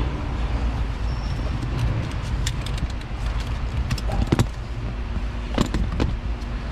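Metal clicks and knocks of a spark plug socket and extension being worked on a spark plug threaded into the engine head, over a steady low shop hum. The loudest knock comes about four seconds in.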